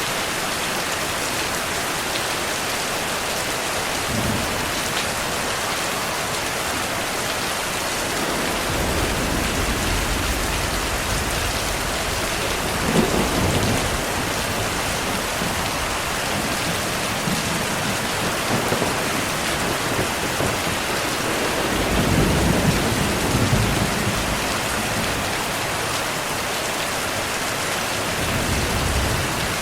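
Heavy rain falling steadily, with low rolling rumbles of thunder: one building from about a third of the way in, a stronger one about three-quarters through, and a shorter one near the end.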